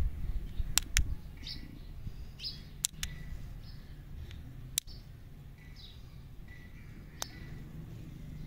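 Small birds chirping in short, high, downward-sliding calls about once a second. A few sharp clicks come from the candy lollipops and their sticks being handled and set down.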